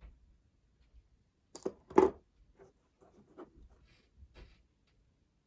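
A few small, sharp clicks and light taps from jewellery pliers working sterling silver jump rings, the loudest click about two seconds in, with fainter ticks after it.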